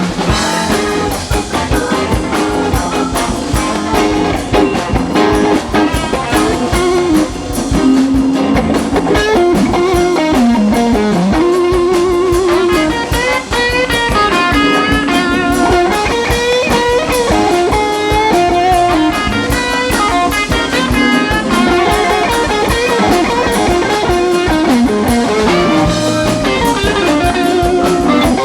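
Live blues-rock band playing an instrumental break: a lead line on electric guitar, bending and moving in pitch, over bass and drum kit, with no singing.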